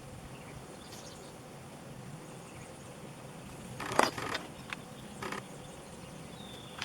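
A sharp click about four seconds in, followed by three softer clicks over the next second and a half, over a faint steady hiss.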